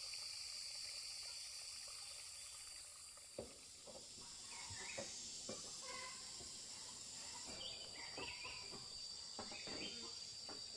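Insects droning steadily at a high pitch, with a few short bird chirps and scattered light clicks and knocks.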